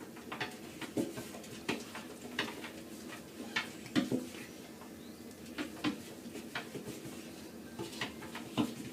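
A series of light, irregular clicks and knocks, about one or two a second, from small hard objects tapping or clattering.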